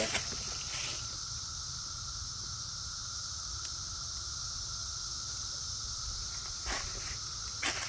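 Chorus of periodical cicadas: a steady, unbroken drone from many calling males. A few brief rustles come about half a second in and again near the end.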